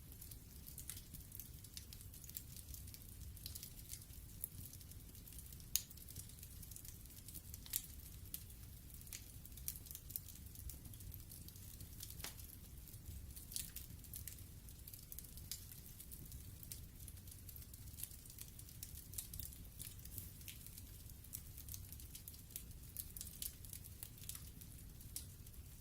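Logs burning in a fireplace, crackling: many small sharp pops and ticks over a low steady rumble, with a few louder snaps scattered through.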